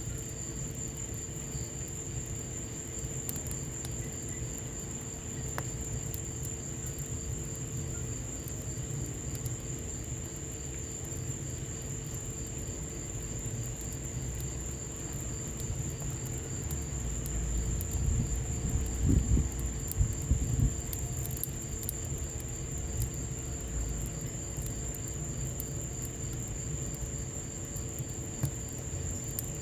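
Wood fire crackling in a patio fireplace, with sparse small pops over a low rumble. A steady high-pitched whine runs throughout. The low rumble swells louder with a few heavier knocks about 18 to 21 seconds in.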